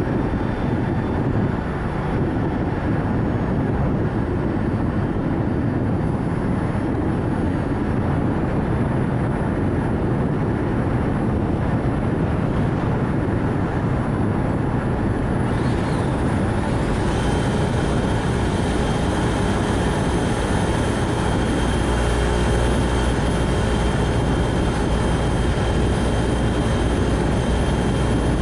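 Steady road and tyre noise with wind rush from a Nissan Note e-POWER driving along. About halfway through the noise turns brighter, with a faint steady high whine, and a deeper rumble comes in a few seconds later.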